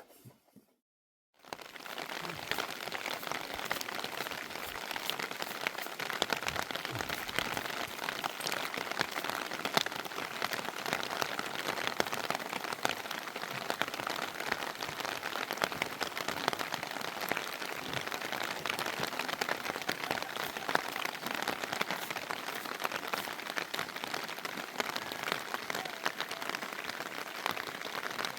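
Steady rain falling, a dense even hiss of countless small drop ticks, starting about a second in after a brief dead silence.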